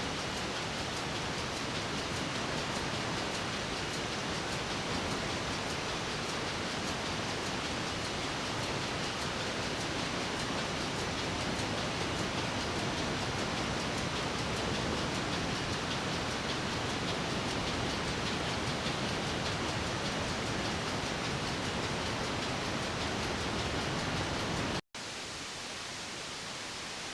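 Steady, dense engine-room noise from a ship's MAN B&W main diesel engine running. It breaks off abruptly near the end and resumes slightly quieter.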